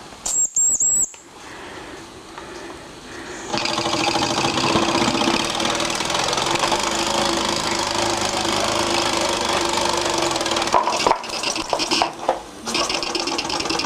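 Mamod TE1A miniature steam engine running under steam, steaming steadily with a fast mechanical rhythm. It gets much louder about three and a half seconds in and breaks off briefly near the end.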